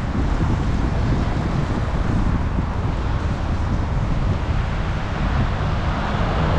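Wind buffeting the microphone of an action camera on a moving bicycle: a steady, heavy rumble of rushing air with no breaks.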